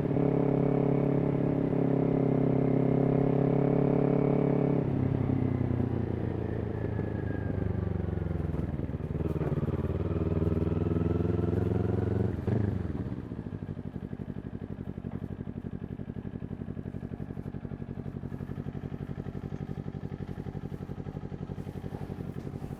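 Kawasaki Ninja 400's parallel-twin engine through a Yoshimura exhaust, running at steady revs for about five seconds. The throttle then closes and the pitch falls as the bike slows, and about thirteen seconds in it settles to a quieter, steady idle.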